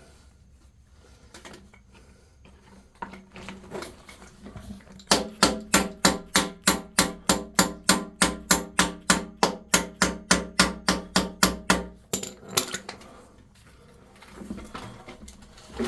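Hammer tapping a barbed inline coupling into the ends of a 1.25 inch poly water line: about seven seconds of quick, even strikes, roughly four a second, each with a short ringing tone. The run starts about five seconds in and stops suddenly.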